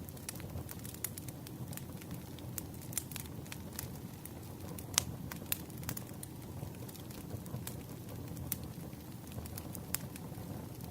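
Wood campfire burning: a steady low rumble of flames with irregular sharp crackles and pops from the burning logs, the loudest pop about halfway through.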